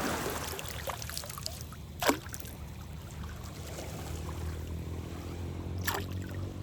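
Shallow seawater lapping and trickling among shoreline rocks, with a low steady hum under it. Two sharp clicks about two and six seconds in, the first the loudest.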